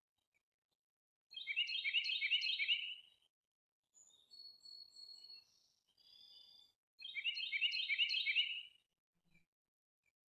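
A songbird singing: two loud songs of about two seconds each, a rapid series of repeated notes, with softer high, thin calls in the gap between them.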